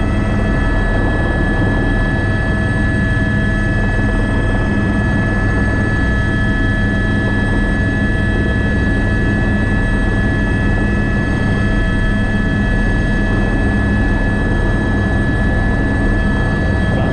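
Airbus AS350 B3 (H125) single-engine helicopter running steadily: a dense low rotor drone with a constant high turbine whine over it.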